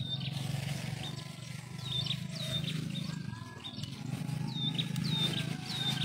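A bird calling with about ten short high chirps, each dropping quickly in pitch, over a steady low drone.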